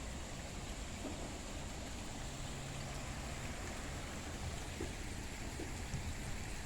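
Steady rush of flowing water from a garden stream or waterfall, with a low rumble underneath.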